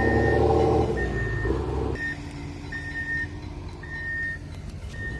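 Forklift's reversing alarm beeping about once a second, each beep a short steady high tone, over its engine running. The engine is loud and pitched up for the first two seconds, then settles lower.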